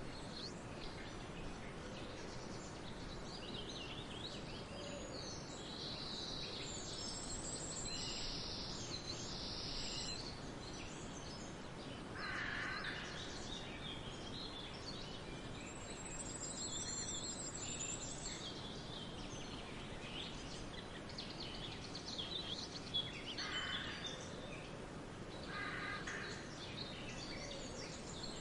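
Several wild birds singing and calling in a forest: many high chirps and trills, with a few lower, harsher calls about twelve seconds in and again near the end, over a steady background hiss.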